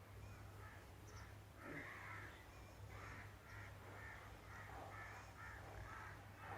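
Faint bird calls in the background: a quick run of short repeated calls, two or three a second, over a low steady hum.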